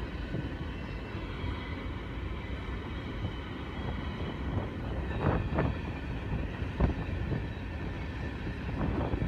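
Covered hopper cars of a freight train rolling past on the rails: a steady low rumble, with a few sharp clanks in the second half.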